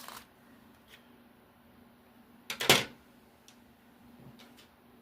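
A few light ticks and one louder knock about two and a half seconds in, from craft tools and the canvas being handled and set down on a tabletop, over a faint steady hum.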